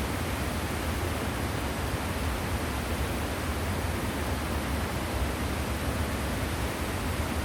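Waterfall pouring steadily: a dense, even rush of falling water with a deep low rumble.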